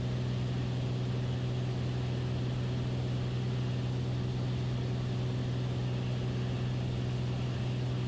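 Beechcraft Bonanza's single piston engine and propeller running steadily in cruise descent, heard from inside the cabin as a constant low drone with an even hum.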